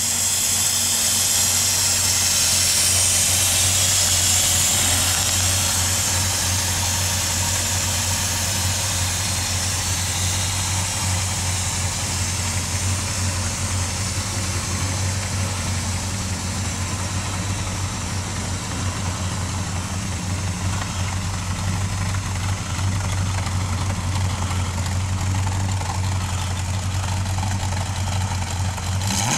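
Chevrolet 350 V8 idling steadily, an even low hum. A higher hiss rides over it for the first several seconds.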